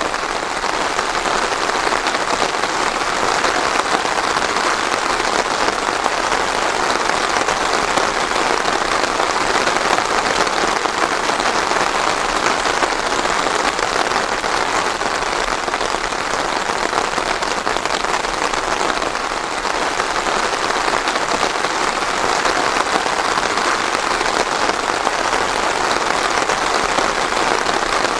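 Steady, heavy rain falling on a surface, a dense even patter without thunder.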